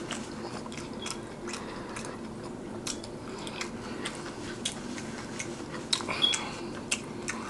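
A person chewing a mouthful of food with the lips closed, with many small wet clicks and smacks.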